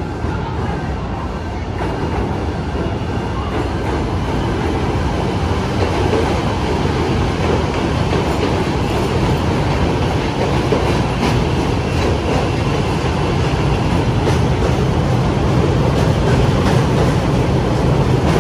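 Chicago Transit Authority "L" rapid-transit train running on elevated track, a steady rumble of wheels and motors that grows louder as it comes close. From about halfway through, clicks from the wheels crossing rail joints come through.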